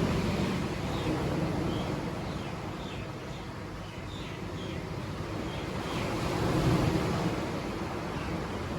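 Sea waves washing onto the shore, the surf swelling and easing in a slow surge, loudest about two-thirds of the way in.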